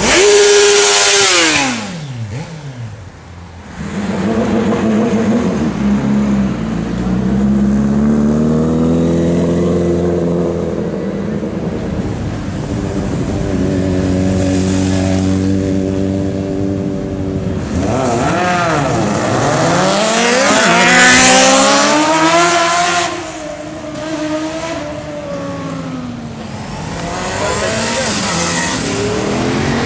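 Sport motorcycles accelerating hard past: a loud pass at the start whose engine pitch drops sharply as it goes by. An engine note then climbs slowly through the gears, another bike screams past about twenty seconds in, and engine notes fall away near the end.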